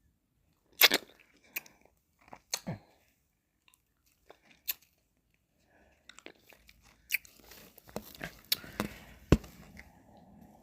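Close-miked mouth sounds of eating ice cream: wet smacks, licks and sharp lip and tongue clicks, a few scattered ones at first and then a busier run in the second half that ends in one loud click.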